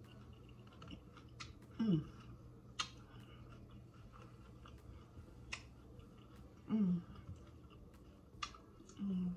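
Close-up crunching and chewing of a hard-shell corn taco, with sharp crackling snaps of the shell now and then. Three short hummed 'mm' sounds falling in pitch come about two, seven and nine seconds in.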